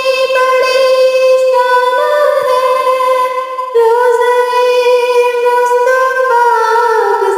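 A high solo voice singing a naat, an Urdu devotional song, drawing out long held notes with slow pitch glides. There is a brief break about three and a half seconds in, and the pitch slides down near the end.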